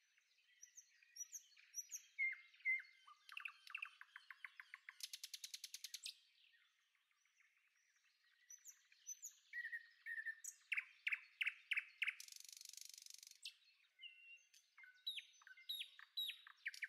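Small birds chirping and twittering: strings of short, quick chirps, a fast trill about five seconds in, and a buzzy rasping call around twelve seconds in.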